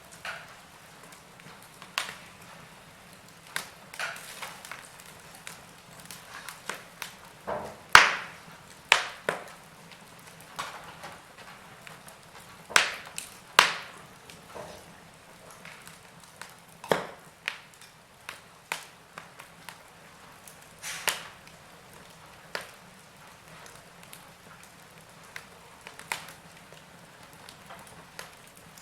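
Wood fire in a fireplace crackling: irregular sharp pops and snaps from burning logs over a soft hiss, a few much louder than the rest.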